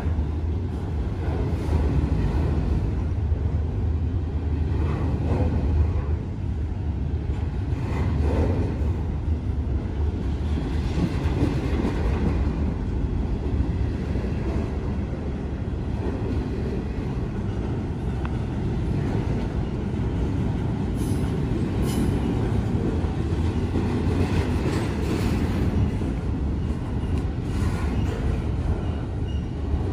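A train's cars rolling past on the rails with a steady rumble.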